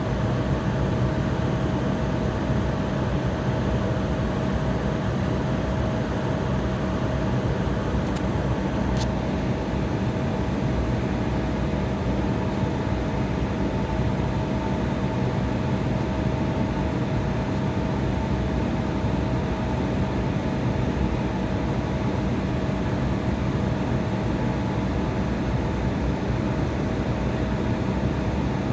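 Steady hum and rush inside a jet airliner cabin: engine drone with a few constant tones over air noise, holding even, as on the taxi rather than the takeoff roll.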